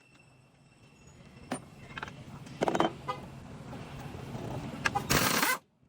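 Car engine rumble growing louder, with a few metal clicks, then a short loud burst from an air impact wrench near the end.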